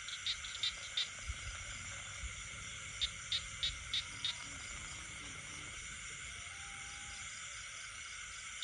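Night chorus of frogs and insects: a steady, high-pitched insect drone, broken by two runs of short, sharp calls at about three a second, one at the start and another about three seconds in.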